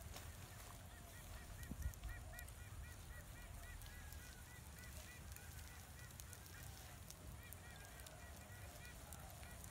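Faint bird calls: a long run of short, quick notes, several a second, starting about a second in, over a low background rumble.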